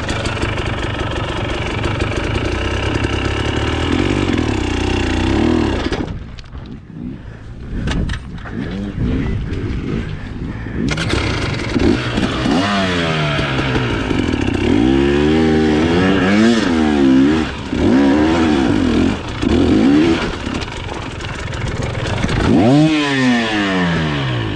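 Dirt bike engine running and revving up and down over and over, with a quieter lull about a quarter of the way through and a sharp rev rising and falling near the end.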